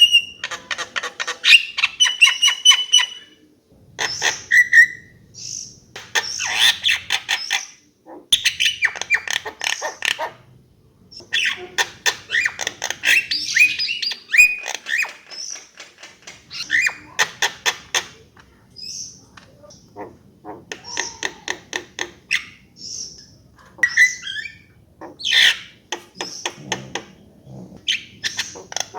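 Javan myna singing a varied song: loud whistled notes, rapid clicking rattles and harsh notes in short phrases, with brief pauses between them.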